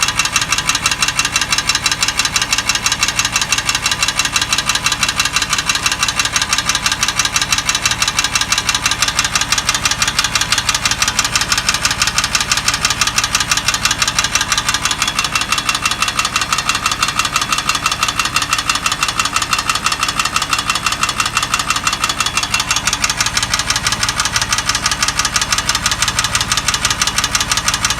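Water-cooled Porsche 911 flat-six engine running steadily with a rapid, even ticking or knocking: an abnormal engine noise that points to a mechanical fault.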